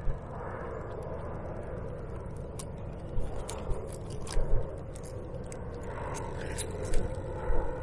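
Steady low rumble like wind on the microphone, with a scattering of sharp clicks and knocks between about two and a half and seven seconds in, typical of gear or a fish being handled in a kayak.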